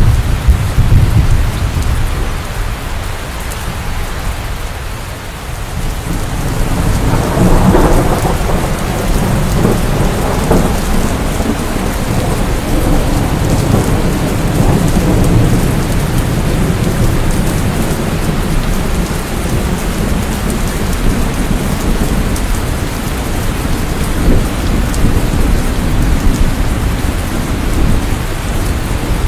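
Steady rain with rolling thunder: a low rumble at the start dies down, then a louder peal swells about seven seconds in and keeps rumbling.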